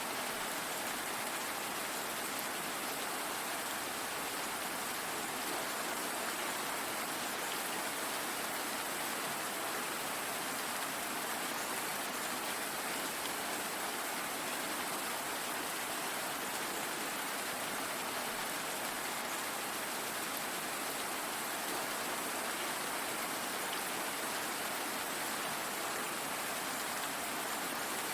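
Steady rain, an even hiss of falling drops that does not change in strength.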